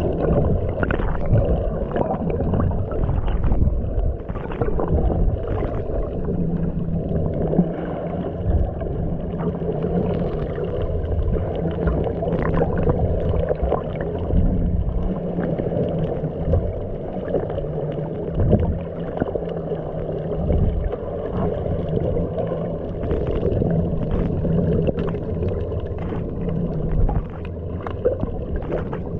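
Muffled underwater ambience: a steady low wash of water noise with a faint low hum that comes and goes.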